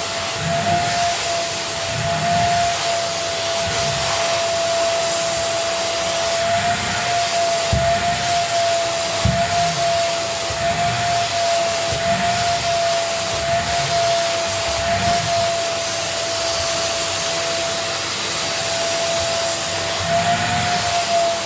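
Wet carpet-cleaning vacuum running steadily, its motor giving a high, slightly wavering whine over a rushing hiss.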